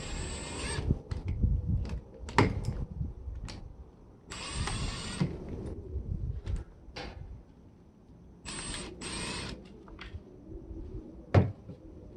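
Work on an appliance being stripped for scrap: three short whirring bursts, each about a second long, with sharp clicks and knocks of plastic and metal parts between them. The loudest knock comes near the end.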